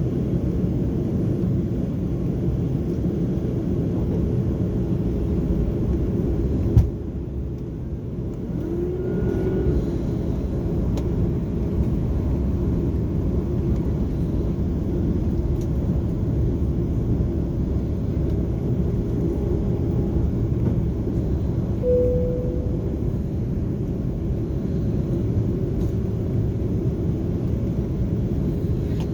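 Airbus A330-300 cabin noise on final approach: a steady low rumble of engines and airflow heard from inside the passenger cabin. A single sharp thump about seven seconds in, after which the sound briefly drops a little.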